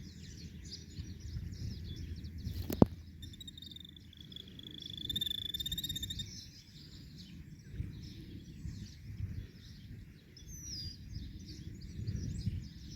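Many small birds chirping and twittering, with one buzzing trill held on a single pitch from about three to six seconds in. A sharp click comes a little under three seconds in, over a low rumbling background noise.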